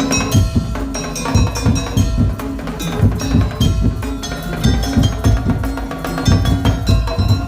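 Madurese daul ensemble playing instrumental music: fast, dense drumming on large drums and wooden tong-tong slit drums, over ringing metal bell tones.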